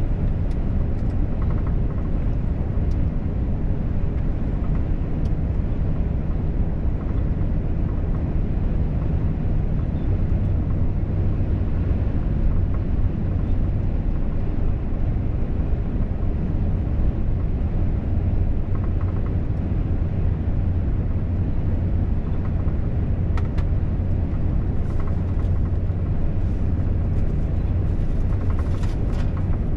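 Volvo FH truck driving at a steady highway speed: a steady low drone of engine, tyres and wind, with a few faint clicks.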